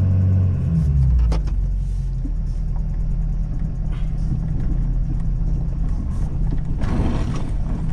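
Ford Super Duty pickup's 6.7-litre Power Stroke V8 diesel running while plowing, a steady low drone that shifts in pitch in the first second or so. There is a click about a second and a half in and a short burst of louder noise near the end.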